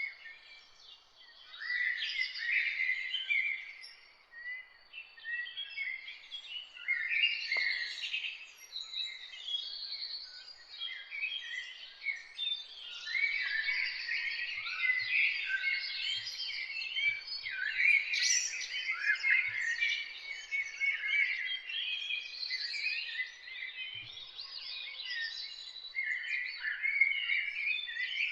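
Several songbirds singing and chirping at once, a dense overlapping chorus of quick high chirps and short trills that keeps going with only brief lulls.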